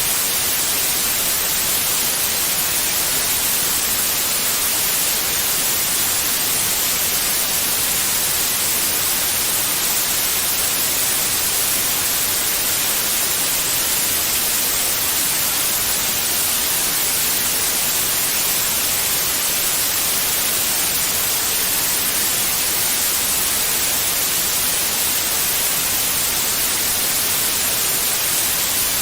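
Steady white noise: an even, unbroken hiss, strongest in the high frequencies, with no pattern or variation.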